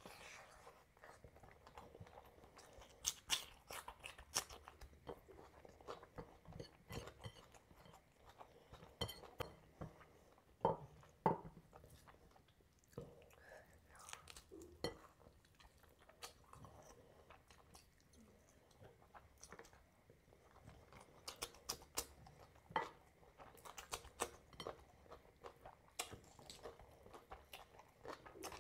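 A person chewing and biting food close to the microphone, with irregular sharp crunches and clicks, loudest a little over a third of the way in.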